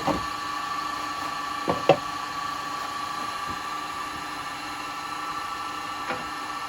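Wood lathe running with a steady motor whine, with a few short knocks from tools being handled, two close together about two seconds in.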